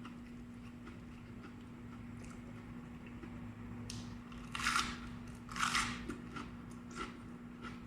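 Close-up chewing of crunchy vegetables: two loud crunching bites about a second apart past the middle, with softer wet mouth clicks around them. A steady low hum runs underneath.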